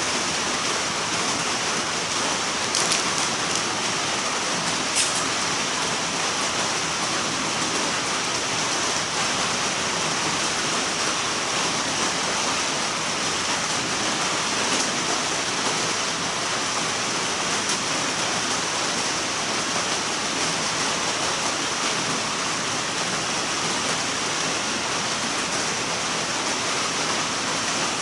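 Steady rushing noise, with two faint clicks about three and five seconds in.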